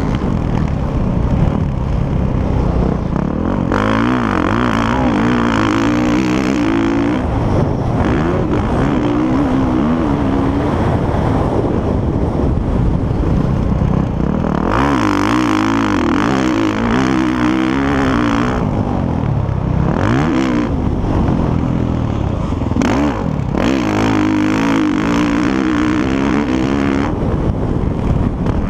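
Motocross bikes racing on a dirt track, their engines revving up and dropping back over and over as the riders work the throttle and change gear. The engine noise swells louder three times as bikes come close.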